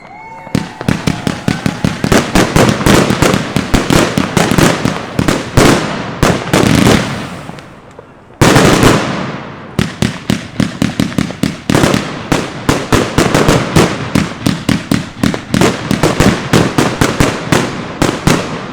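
Funke "Elegant Night" firework battery firing: a dense run of rapid bangs, several a second, that dies down about seven seconds in and starts again with one very loud bang, then carries on rapidly.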